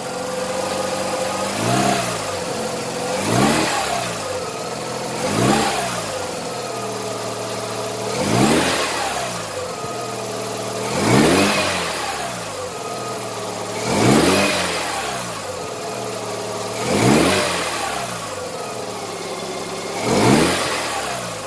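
Mazda RX-7 FC's naturally aspirated 13B rotary engine running during warm-up, its revs swelling up and falling back about every two to three seconds, about eight times. The engine is being run to bleed air out of a freshly refilled cooling system.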